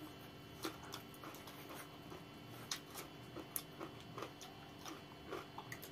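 Close-up eating sounds of people chewing noodles and cucumber: an irregular scatter of soft mouth clicks and smacks.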